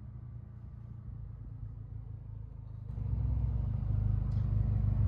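Car engine drone with road rumble heard from inside a moving car, stepping up in loudness about three seconds in as it pulls harder.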